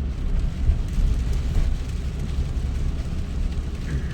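A car's engine and tyres on a rain-soaked road, heard from inside the cabin as a steady low rumble with a fainter hiss above it.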